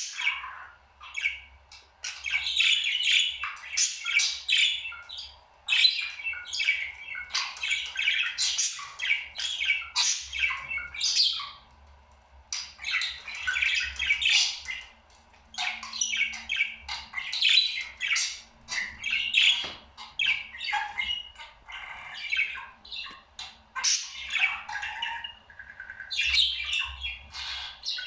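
Pet parrot chattering and squawking in rapid runs of short chirps, broken by a few brief pauses.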